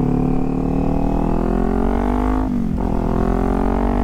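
Kawasaki Z400's parallel-twin engine accelerating, its pitch climbing steadily, then dropping about two and a half seconds in as it shifts up a gear and climbing again.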